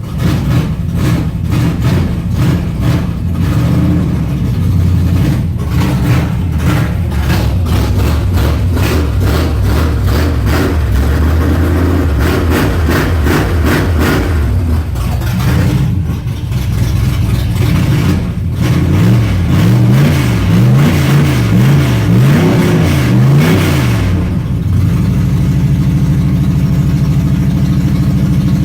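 1970 Chevelle's small-block Chevy V8 running just after a cold start, loud and steady at a fast idle. Partway through, the revs rise and fall in a run of quick throttle blips, then settle back to a steady run.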